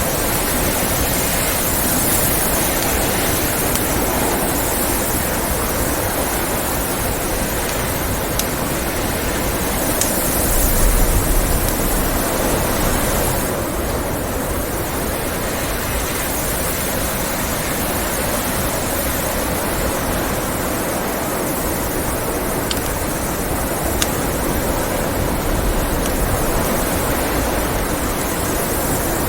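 Steady blizzard wind noise, swelling with a deeper gust about ten seconds in, with a few sharp pops of a crackling wood fire.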